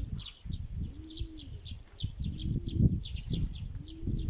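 Domestic pigeons cooing, four short coos about a second and a half apart, over constant high-pitched chirping of small birds. Wind rumbles on the microphone underneath.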